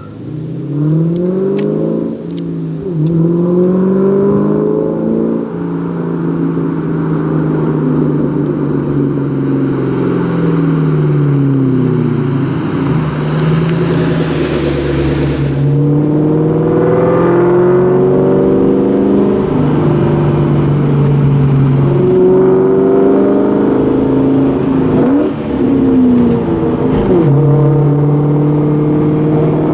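2004 Mustang SVT Cobra's supercharged 4.6-litre V8 running loud through Borla Stinger mufflers and an off-road X-pipe, its revs climbing and dropping back several times, with a steady stretch in between. A rushing hiss rises partway through and cuts off suddenly.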